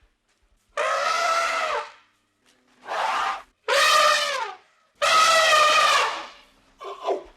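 A farm animal calling five times, each call a drawn-out, pitched cry of up to about a second, the last one short near the end.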